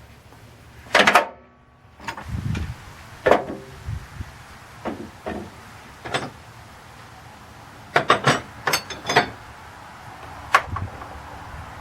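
Hand tools and metal parts clanking and knocking during engine-bay work. There is a series of sharp, separate knocks, the loudest about a second in with a brief metallic ring, and a quick cluster of clicks around eight to nine seconds in.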